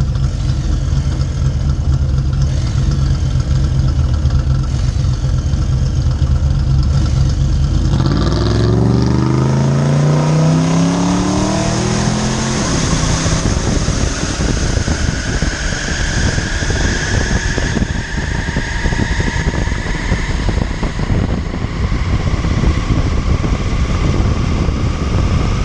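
2010 Toyota Prius on a full-throttle drag pass. A steady low engine drone gives way, about eight seconds in, to an engine note that climbs quickly as the car launches. Road and wind rush follow, with a high whine rising slowly in pitch as the car gathers speed.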